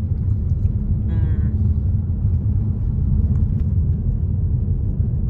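Steady low rumble of a car driving, heard from inside, with a brief voice about a second in.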